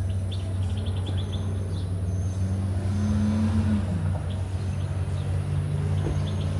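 A motor vehicle engine running, its pitch rising a little and then dropping about four seconds in, as a vehicle passing by would. Birds chirp in the background.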